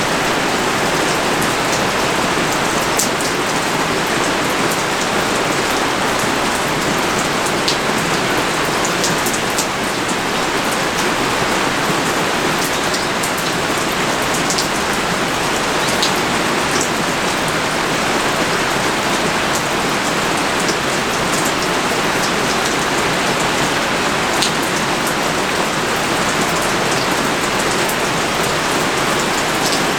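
Pouring rain: a steady, dense hiss of rainfall with a few sharper drop ticks scattered through it.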